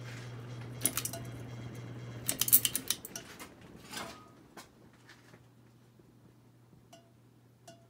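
Harbor Breeze Armitage ceiling fan with a steady low motor hum, broken by sharp metallic clicks and clinks about a second in and again in a quick cluster around two and a half seconds. After these the hum drops away, leaving only a few faint ticks.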